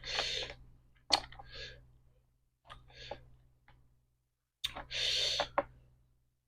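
Close mouth sounds of someone eating seafood papaya salad with cockles and squid: wet chewing and lip smacks in four short bursts, each starting with a sharp click.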